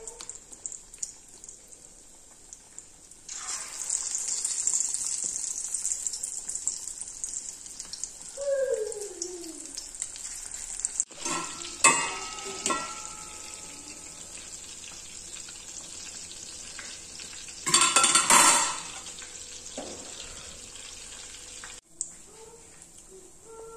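Battered chicken pieces deep-frying in hot oil: a steady sizzle sets in about three seconds in. A few clinks of a metal utensil in the pan come about halfway through, and the sizzle flares louder for a moment about eighteen seconds in.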